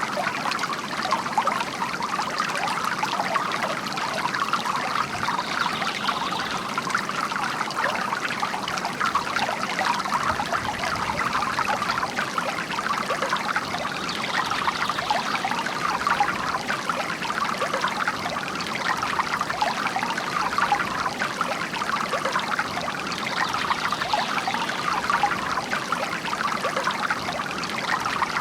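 Bamboo water fountain: water trickling and splashing steadily from the bamboo spout into the water below.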